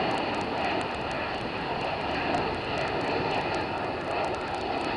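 Jet airliner's engines at takeoff power just after liftoff, a steady rushing noise with a faint whine in it.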